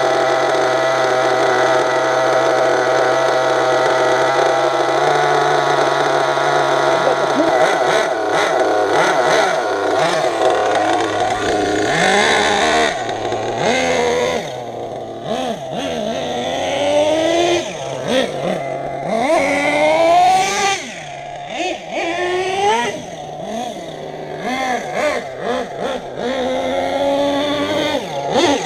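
Nitro RC truck's small glow engine running, a high-pitched screamer. For about the first twelve seconds it holds a steady high note, then it revs up and down over and over as the truck is driven.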